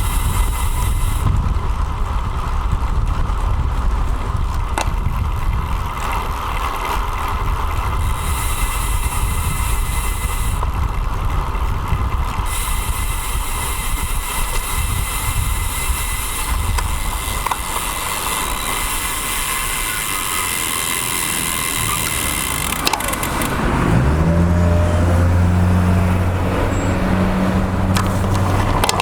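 Wind and road noise on the microphone of a handlebar- or frame-mounted action camera on a road bike while riding, a steady low rumble. About four-fifths of the way in, a steady low engine hum from a nearby motor vehicle joins for a few seconds.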